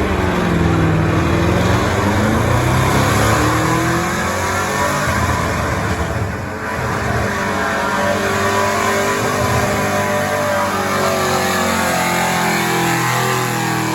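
Stock gas pickup truck engine running hard under load, pulling a sled. The pitch wavers up and down, there is a brief dip about six and a half seconds in, and the sound fades near the end.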